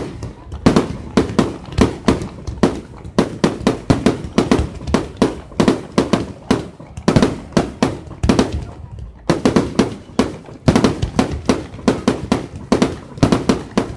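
Fireworks going off in a rapid barrage: a steady string of sharp bangs and crackles, about three a second, with a few short lulls.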